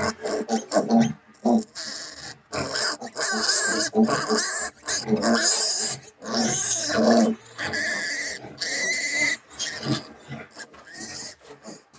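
Piglets a few days old grunting in short bursts, with several longer, higher squeals in the middle, as they are handled for iron injections.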